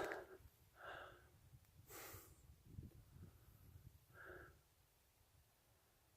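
Faint breathing: a few soft breaths about a second in, at two seconds and near four seconds, over near silence with a light low rumble.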